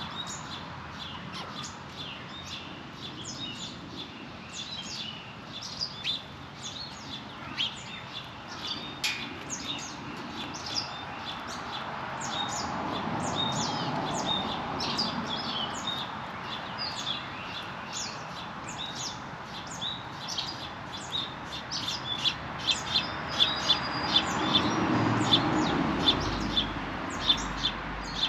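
Small songbirds chirping over and over, many short high chirps throughout. A low rushing noise swells up and fades twice, once near the middle and once near the end.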